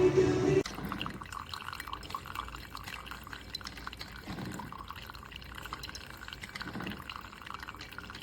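Liquid trickling and dripping in a dense, irregular patter. Background music cuts off abruptly just under a second in.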